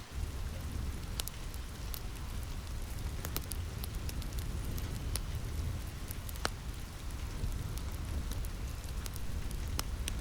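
Steady rain with a low rumble underneath, mixed with scattered sharp crackles and pops from a wood fire.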